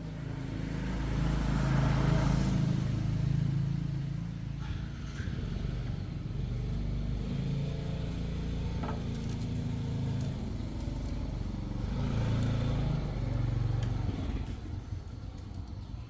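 Small motorcycle engine running, its sound rising twice: once about two seconds in and again near the end.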